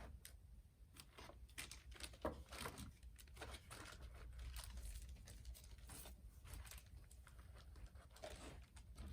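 Faint crinkling and light taps of plastic bags of craft supplies being handled and set into a paper box.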